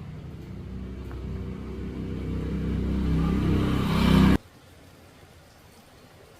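An engine running and growing steadily louder, then cutting off abruptly a little over four seconds in, leaving only a faint background.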